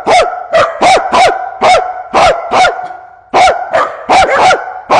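A dog barking loudly and rapidly, about a dozen sharp barks with each one dropping in pitch, with a brief pause about halfway through.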